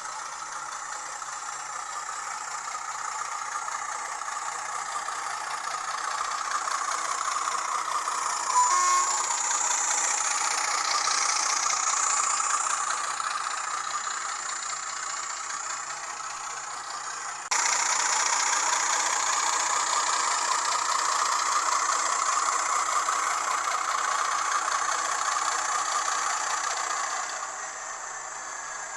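Hornby TTS sound decoder in an N gauge Class 25 diesel model playing its engine sound through a tiny speaker as the loco runs, thin with no bass. The engine note builds gradually, a brief tone sounds about nine seconds in, the sound steps up suddenly a little past halfway, and it eases off near the end.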